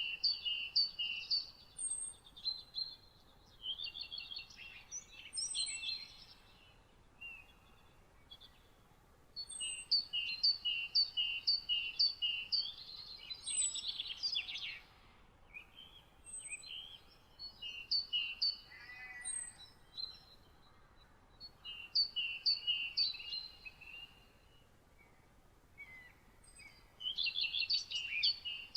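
Songbirds singing in a morning chorus. One bird repeats a phrase of rapid, evenly spaced notes, pausing a second or more between phrases. Another gives a thin, short, high call about every two seconds.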